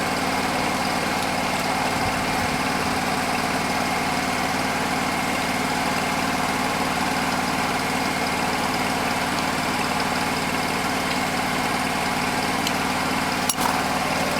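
An engine running steadily at idle, with a single sharp click near the end.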